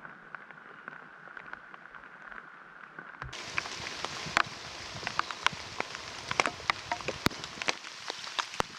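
Rain falling, with many separate drops tapping sharply on a near surface. About three seconds in it turns abruptly louder and brighter, and the drop hits come thick and irregular.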